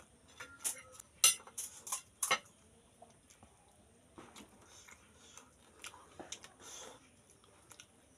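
Chewing and crunching a mouthful of crisp, filled pani puri shells. A few sharp, loud crunches come in the first couple of seconds, then softer, wetter chewing.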